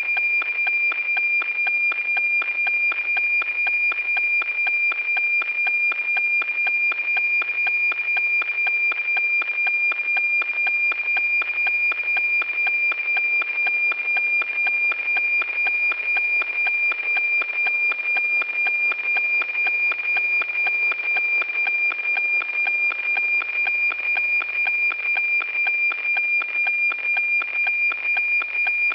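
NOAA-18 weather satellite APT signal from a radio receiver: a steady high tone chopped into a fast, even ticking rhythm.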